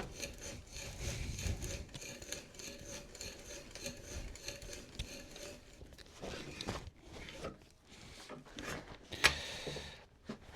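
Hand tool scraping against wood in quick, dense strokes, then a few slower separate strokes and one sharp knock about nine seconds in.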